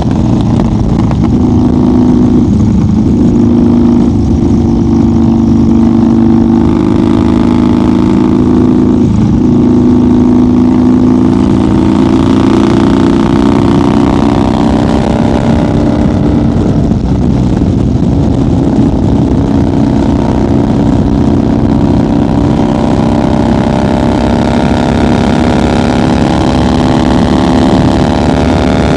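1990 Harley-Davidson FXR's Evolution V-twin engine running while cruising at highway speed, its pitch stepping down briefly a couple of times in the first ten seconds and then holding steady.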